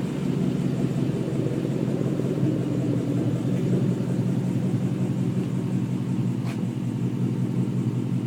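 Ford Mustang 5.0 V8 running with its mufflers removed, a loud exhaust note held at a steady engine speed.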